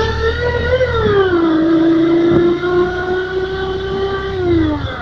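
Yamaha New Megapro motorcycle's engine note through its sound booster, revved with a whining pitch that climbs slightly, drops back, holds steady for about three seconds and falls away near the end, over a low rumble.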